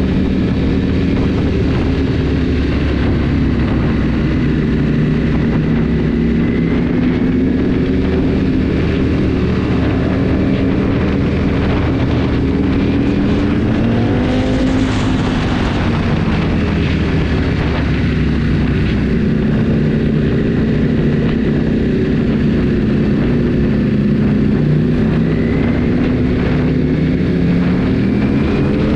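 Motorcycle engine running at cruising speed under heavy wind noise on the microphone, its pitch rising and falling gently as the throttle changes, with a short rise about halfway through.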